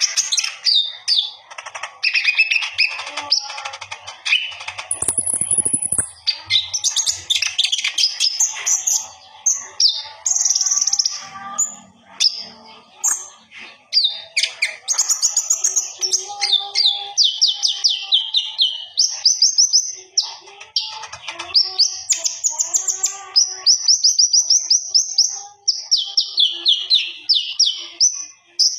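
A konin songbird singing continuously and energetically, rapid chirps and fast trills of quick repeated notes, some runs stepping down in pitch.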